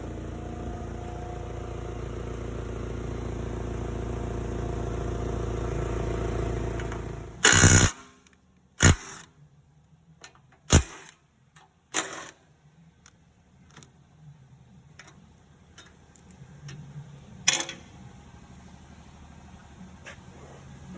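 Forklift engine running steadily, then cut off with a loud burst about seven and a half seconds in. A few sharp knocks and clicks follow at scattered intervals.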